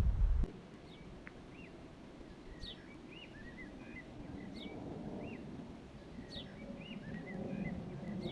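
Small birds singing in a forest: short arched chirps and quick falling calls repeating every couple of seconds. Wind buffeting the microphone cuts off about half a second in.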